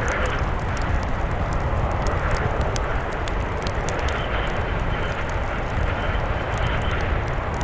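Steady, heavy wind noise of a blizzard with a deep rumble, overlaid by frequent sharp crackles and pops from a wood fire.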